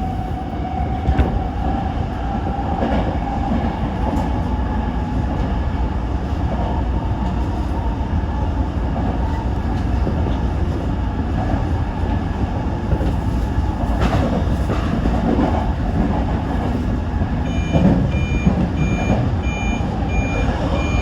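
Toyo Rapid Railway 2000 series electric train running along the line: a steady rumble of wheels and motors with a faint motor whine, and a sharp rail-joint click about two-thirds through. Near the end a regular electronic beeping starts, repeating a little more than once a second.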